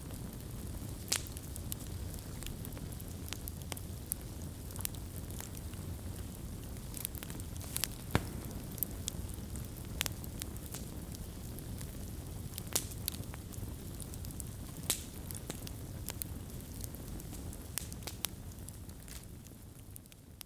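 Wood fire burning: a steady low rumble of flames with scattered, irregular sharp crackles and pops, fading down near the end.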